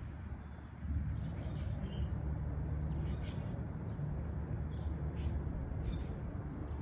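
Wind buffeting the microphone, a low rumble that strengthens about a second in and stays strong, with a few faint bird chirps above it.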